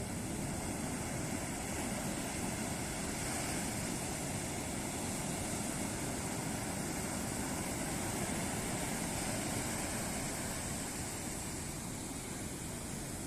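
Ocean surf breaking on a beach: a continuous rushing wash of waves that swells a little around the middle and eases slightly near the end.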